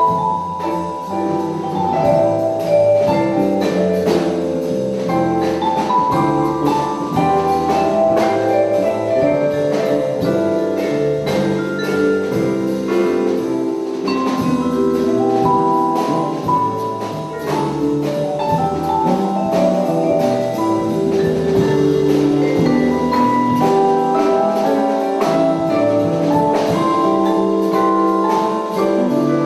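Vibraphone playing a jazz melody with an ensemble: quick struck mallet notes that ring on, over lower accompanying notes.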